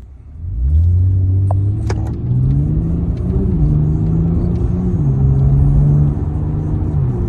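Kia Stinger's 3.3-litre twin-turbo V6 under hard acceleration, heard from inside the cabin. The engine note climbs sharply about half a second in, then drops in quick steps a few times as the automatic changes up very fast, with only short periods of revving between the gears.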